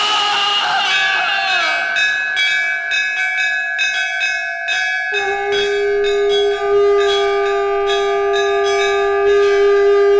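Dramatic film background score: bell-like chiming tones held over a steady ticking beat. A strong low sustained note comes in about five seconds in.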